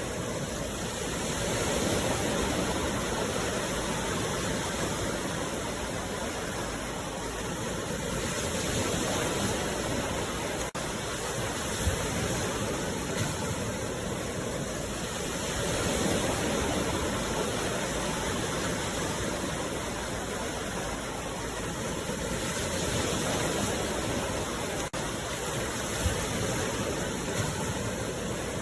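Sea waves washing ashore: a steady rush of water that swells and eases slowly, about every seven seconds.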